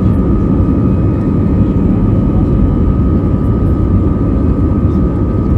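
Cabin noise of an Airbus A320-214 with its CFM56 jet engines running: a loud, steady rumble with a constant high whine on top.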